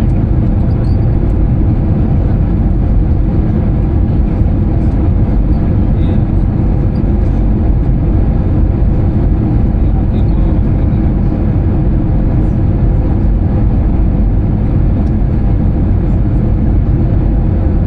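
Steady cabin noise inside an Airbus A320-214 in flight: engine and airflow noise heavy in the low end, with a thin steady hum over it.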